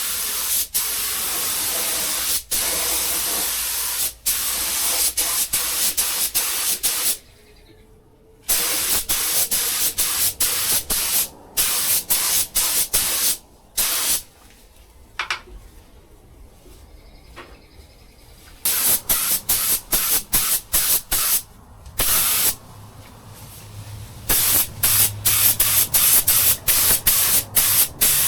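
Paint spray gun hissing as it lays a coat of paint on an engine bay. There is one long pass for the first seven seconds or so, then many short trigger pulls with brief pauses between them.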